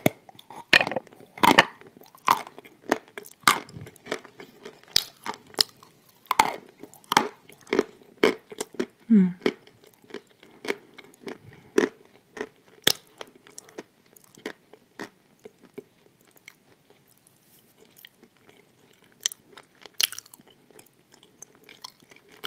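Close-up crunching and chewing of a hard, pale pressed tile (Turkestan tiles), bitten and ground between the teeth. The dry, sharp crunches come several times a second at first, then thin out to scattered quieter crunches in the second half.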